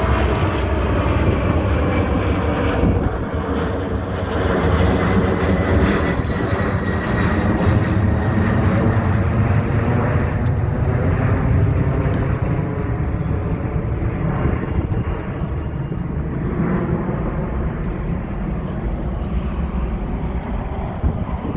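The three General Electric CF6-50 turbofan engines of a McDonnell Douglas MD-10-30F freighter running at takeoff power as it climbs away. It is a loud, steady rumble with a few tones gliding slowly downward early on, and the high end fades gradually as the aircraft draws away.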